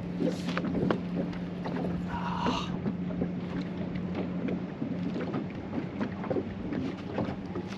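Wind on the microphone over lake water, with a steady low hum, scattered light clicks, and a brief brighter noise about two seconds in.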